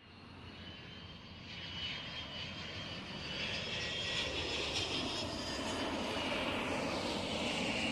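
Airliner engine noise with a high whine as the plane comes in to land. It grows louder over the first few seconds and then holds steady, the whine dropping a little in pitch near the end.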